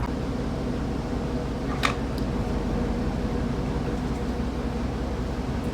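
Truck engine running, a steady low hum heard from inside the cab, with a single short click about two seconds in.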